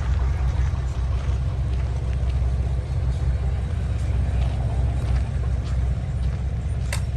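Heavy diesel truck engine running with a steady low rumble. A sharp click near the end.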